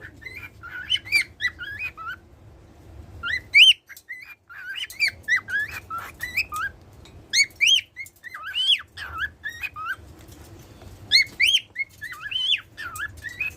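Pet cockatiel singing: quick whistled notes sliding up and down, in four phrases separated by short pauses.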